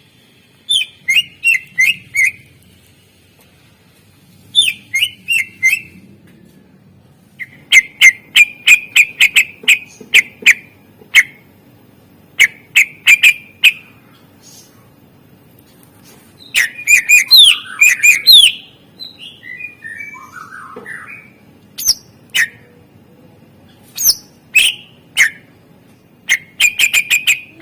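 A cucak ijo (green leafbird) singing loud bursts of rapid, sharp chirping notes, four to ten at a time with short gaps between, and a lower warbling phrase about two-thirds of the way through. This is the leafbird's 'isian' song, filled with mimicked phrases of other birds.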